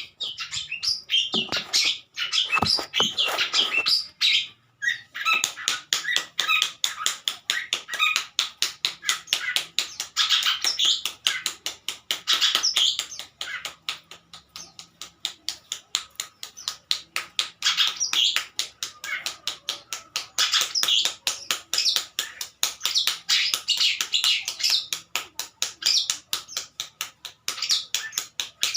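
Long-tailed shrike (pentet) singing: a long, rapid series of short chattering notes, with a few brief lulls. A couple of low thumps come near the start.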